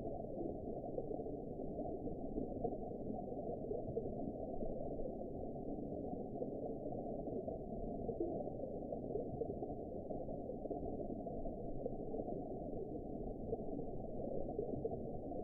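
Underwater ambience: a steady, muffled wash of water noise, deep-pitched with nothing high in it and no separate events.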